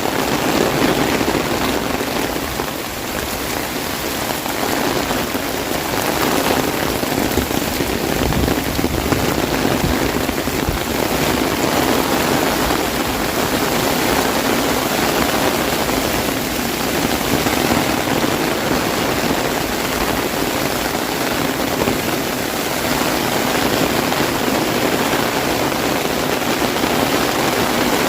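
Heavy rain falling on an umbrella close overhead: a steady, dense hiss.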